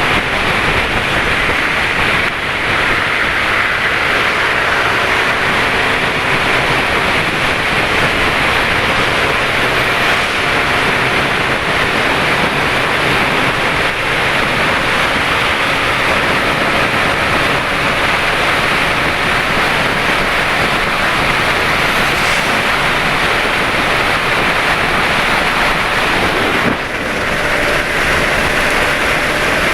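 Steady rush of wind and road noise from riding a motorcycle in traffic, with the faint hum of motorcycle engines running beneath it near the start and again near the end.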